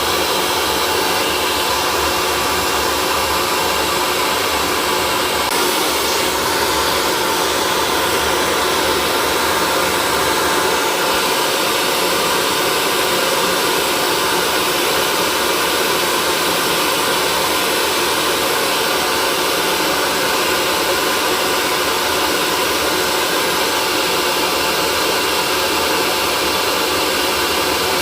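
Electric hair dryer running steadily: a continuous even blowing whir with a faint motor hum, played as soothing white noise for a colicky baby.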